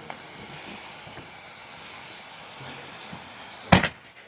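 A firework exploding with a single loud, sharp bang near the end, after a few seconds of faint hissing.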